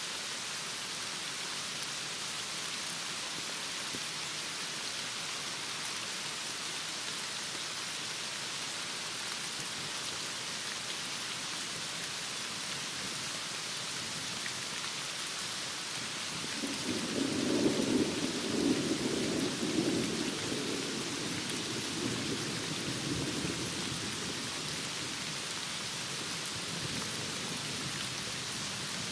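Heavy rain falling steadily, with a low roll of thunder rising a little past the middle, peaking for a few seconds and fading away.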